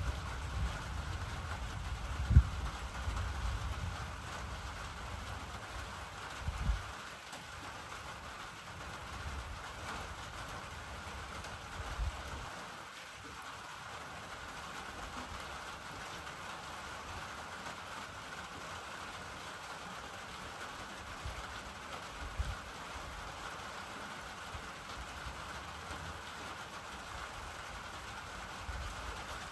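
Steady rain falling, with low rumble in the first several seconds and a few short sharp pops or knocks scattered through.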